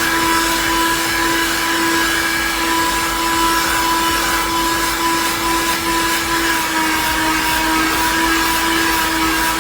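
Cheap handheld car vacuum cleaner running, a steady motor whine over the hiss of air being drawn through it, its pitch dipping slightly about seven seconds in.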